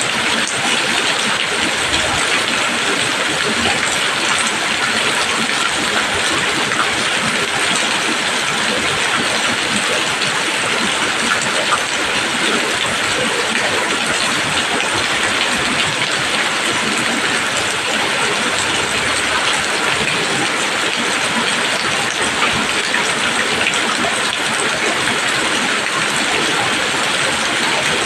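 Steady rain falling on leaves, a dense, even patter of drops.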